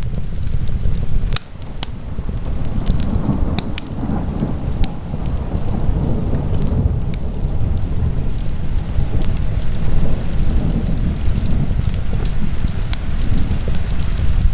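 Wood fire burning in a fireplace: crackling with scattered sharp pops over a steady low rumble.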